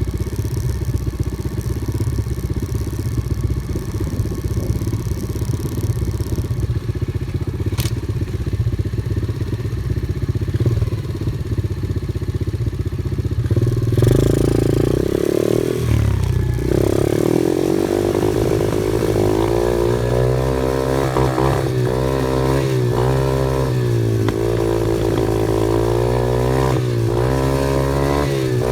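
Off-road vehicle engine running under a dense low rumble. From about halfway its note rises and falls again and again as it revs up and down.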